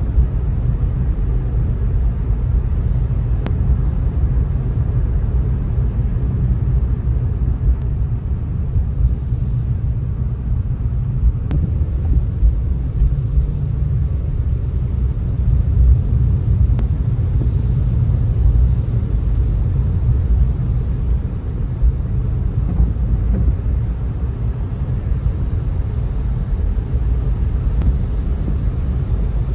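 A car driving on a wet road, with a steady low rumble of road, tyre and engine noise and a few faint ticks.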